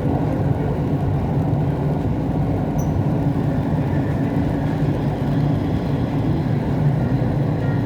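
Siemens Inspiro metro train running at steady speed between stations, heard inside the passenger car: a constant rumble with a faint steady whine.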